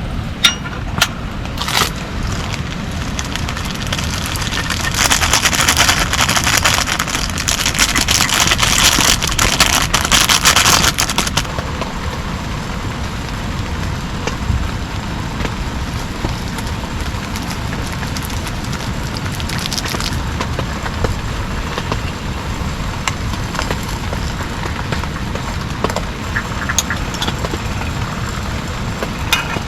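Heavy rain falling steadily, with a few sharp taps in the first two seconds and a louder hiss from about five to eleven seconds in that stops suddenly.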